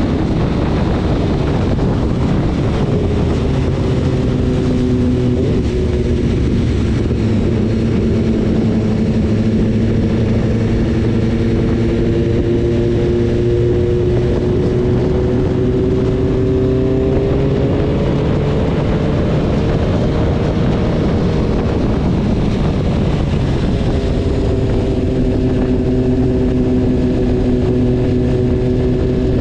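BMW S1000RR's inline-four engine running steadily under way, under heavy wind and road rush on the microphone. The engine note drifts slowly up and down in pitch, fading into the wind noise for a few seconds past the middle before coming back.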